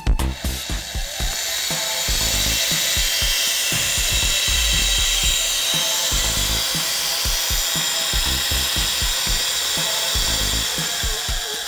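775 DC motor of a homemade PVC-housed trim router running with no load, a steady high whine. It speeds up about a second in and slows near the end as the speed knob is turned.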